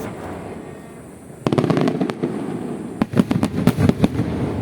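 Aerial fireworks going off: a sudden volley of bangs about a second and a half in, then a dense run of rapid crackling reports around the three-second mark.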